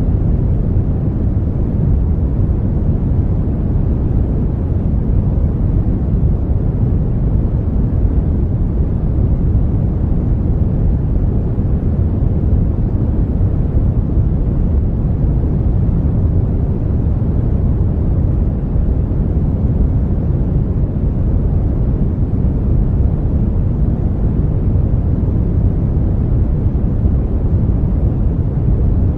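Brown noise: a steady, even rumbling hiss weighted heavily to the low end, with no tones or events.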